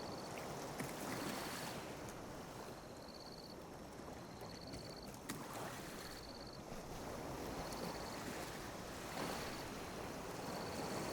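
Small ocean waves lapping on a beach, the wash swelling and easing every few seconds. A short high trilled chirp repeats about every one and a half seconds, and there is a single sharp click about five seconds in.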